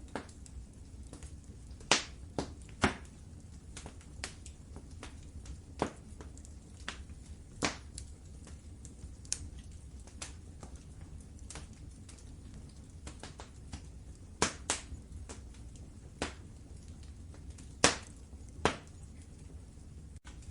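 Wood fire in a fireplace crackling: irregular sharp pops and snaps, several much louder than the rest, over a low steady rumble of the burning fire.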